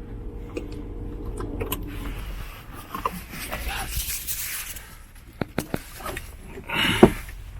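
A vehicle's steady low hum for the first two seconds or so, then scattered handling noises with three sharp clicks in quick succession a little past halfway.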